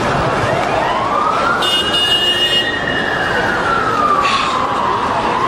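Emergency vehicle siren wailing: its pitch rises slowly to a peak about two seconds in, falls over the next few seconds, and starts rising again near the end, over steady street noise. A short higher tone sounds about two seconds in.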